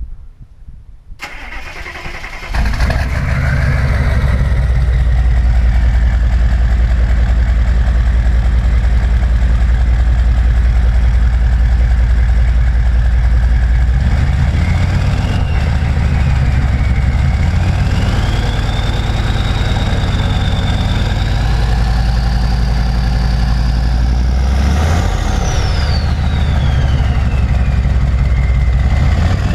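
1997 GM 6.5L turbo-diesel V8, straight-piped through a 4-inch exhaust with a Heath Diesel Turbo Master turbo: it starts about two seconds in, then runs loud. From about fifteen seconds a turbo whistle rises and falls with the revs, climbing to its highest about 25 seconds in, then dropping away and rising again at the end.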